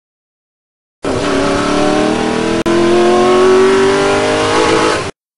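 Car engine sound effect: an engine revving with its pitch slowly rising. It starts suddenly about a second in, drops out for an instant partway through, and cuts off abruptly near the end.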